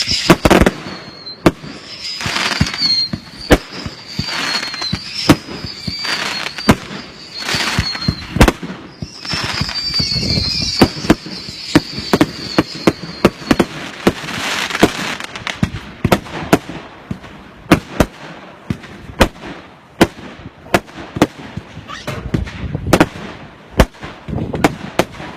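Consumer firework cakes firing: a rapid series of sharp bangs mixed with crackling bursts. A wavering high whistle screams over the first few seconds and again around ten seconds in. From about sixteen seconds on, the shots come as a steadier run of sharp reports, roughly two a second.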